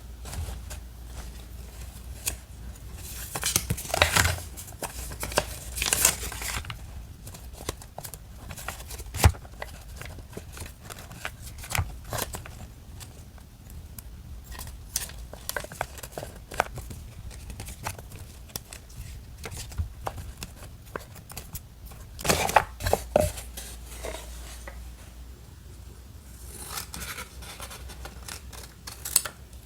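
Paper-craft handling: scissors snipping paper in short bursts, several times, between paper rustling and small sharp taps on the desk.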